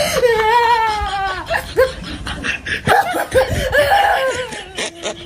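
A person laughing: a long falling vocal note, then a run of short laughs.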